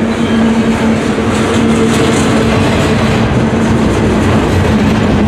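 Double-stack container train's well cars rolling past close by, a loud, steady noise of steel wheels on the rails with a constant low hum running under it.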